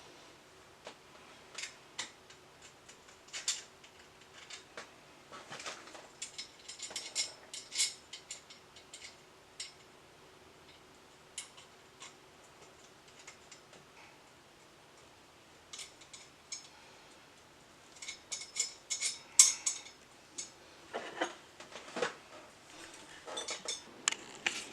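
Irregular light metallic clicks and clinks of hand work on metal parts, with a busier cluster of clicks about eighteen to twenty seconds in.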